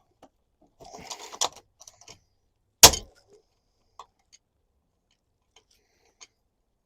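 Hand-tool work on a stuck camper fitting: scattered small metallic clicks and rattles, a brief scraping rustle about a second in, and one sharp loud knock nearly three seconds in, then a few faint ticks.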